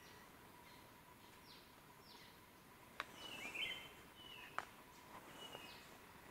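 Faint forest birdsong: short falling chirps repeat every second or so, with a brief warbling whistle about halfway through. Two sharp clicks come near the middle.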